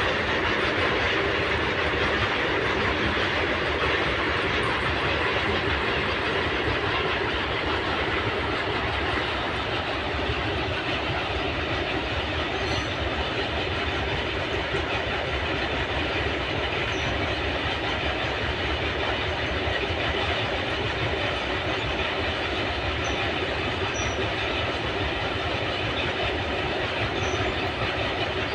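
A train running past on the track, its wheels rolling steadily on the rails for the whole stretch with no marked change in loudness.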